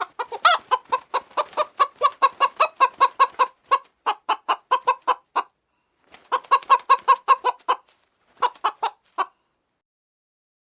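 A chicken clucking in fast runs of short clucks, about six a second: one long run, then after a short pause two shorter runs, ending about nine seconds in.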